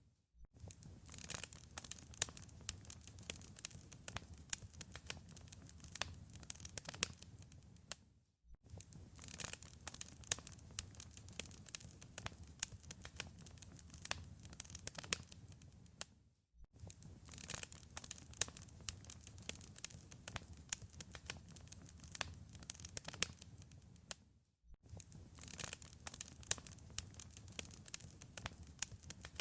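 Wood fire in a fireplace crackling, with dense sharp pops and snaps over a low rumble of flames. The sound drops out briefly four times, about every eight seconds, and then resumes.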